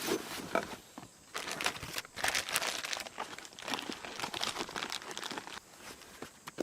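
Crinkling and rustling of something being handled: an irregular run of crackles that grows denser about a second and a half in.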